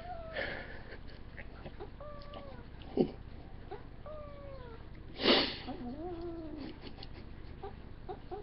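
Domestic cat meowing, four short arching meows about two seconds apart. A sharp click comes about three seconds in, and a short, loud noisy burst just after five seconds.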